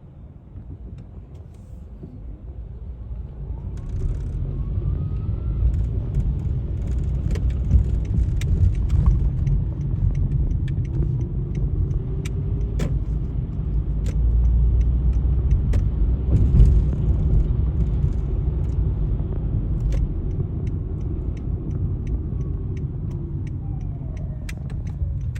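Holden Commodore ZB police cars driving past, a heavy engine and road rumble that builds over the first few seconds and stays loud, with scattered sharp clicks.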